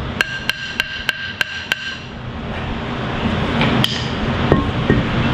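Hammer blows ringing on steel: six quick strikes about three a second, then two more single knocks later on. A steady low hum grows louder underneath in the second half.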